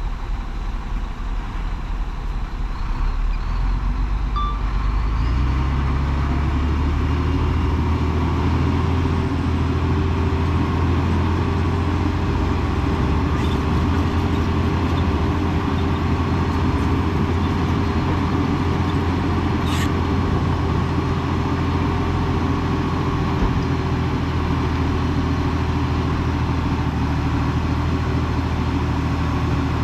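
Heavy diesel engine of earthmoving equipment running, stepping up to a higher, steady drone about five seconds in as it comes under load.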